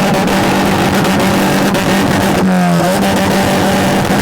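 Car engine held at high revs on a two-step launch limiter, a loud steady note with rapid crackling pops from the exhaust. The revs dip briefly about two and a half seconds in.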